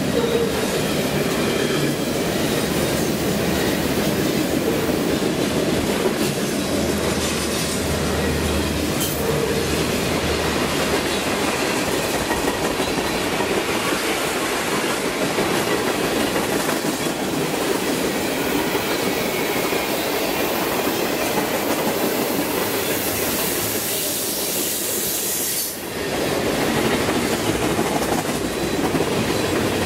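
Freight cars of the CN 422 train rolling past with a steady rumble and clatter of wheels on rail. Near the end a high hiss builds for a few seconds and then cuts off suddenly.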